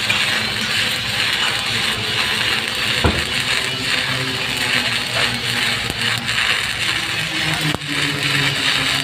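Steady crackling hiss of a stick-welding (SMAW) arc burning on a horizontal tank seam, with guitar-led background music underneath and a single sharp click about three seconds in.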